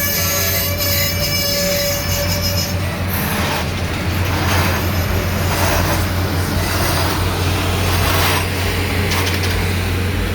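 Canadian Pacific Holiday Train rolling along the rails, its wheels squealing high and metallic over the first few seconds, over a steady low drone.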